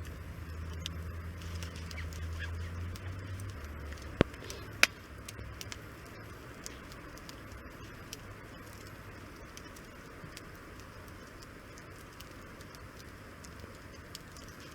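Wood campfire crackling with scattered small pops and two loud sharp snaps a little past four seconds and just before five seconds in. A low rumble sits under the first few seconds and then fades.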